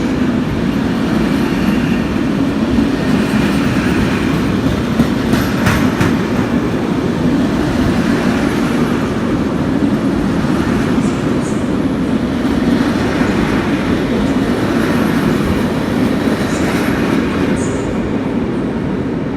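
Train running past on the tracks: a steady, loud rumble of wheels on rail, with a few sharp clicks about five to six seconds in and brief high squeals later on.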